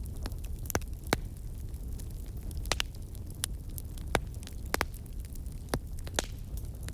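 Wood fire burning in a fireplace, with scattered sharp crackles and pops, about two a second and the loudest about a second in, over a steady low rumble of the flames.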